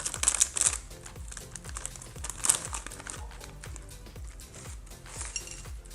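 Crinkling of a plastic chip bag being opened and handled, in bursts near the start and about two and a half seconds in, over background music with a steady beat.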